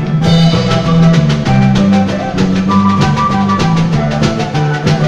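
Andean folk band playing an instrumental passage: a steady drum beat under a bass line and melody instruments.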